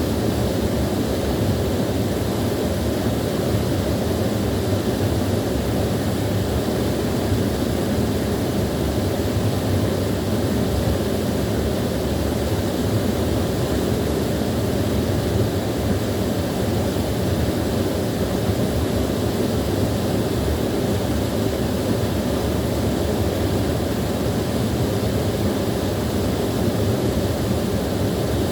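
Small waterfall splashing and rushing steadily, a constant deep wash of water with no change.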